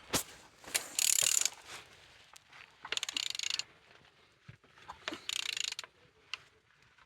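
Renault K9K diesel engine being turned over by hand with a ratchet wrench. The ratchet clicks in three short bursts about two seconds apart, one on each return stroke. The engine turns freely.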